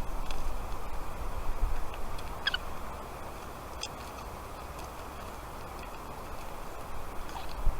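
A few short, high chirps from falcon chicks in the nest, the clearest about two and a half seconds in, over a steady hiss and low wind rumble.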